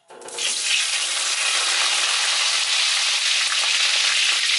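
Whole tomatoes frying in hot oil in a kadai: a steady sizzling hiss that starts suddenly and builds within the first half-second.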